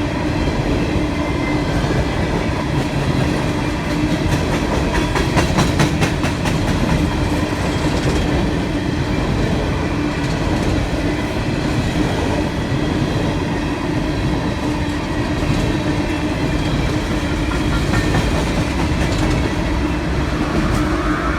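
Loaded coal train's cars rolling past on the rails: a steady rumble with a ringing wheel tone. Between about four and seven seconds in, a quick run of clicks sounds as wheels pass over a rail joint.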